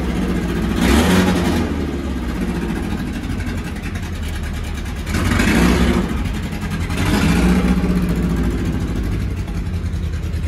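Supercharged 1915 cc air-cooled VW flat-four in a dune buggy running at idle, with short throttle blips about a second in, around five to six seconds in and again around seven to eight seconds in.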